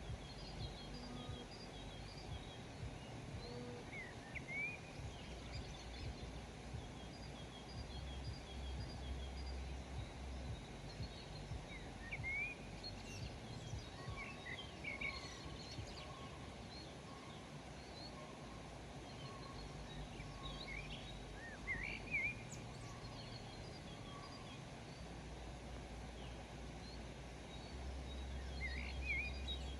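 Several small birds chirping and calling at intervals, short rising chirps and quick repeated notes, over a steady outdoor hiss and a faint low rumble.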